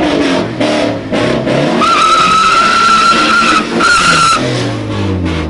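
Car spinning its tyres: a long high tyre squeal starts about two seconds in and breaks off near the end, over the engine revving up and down.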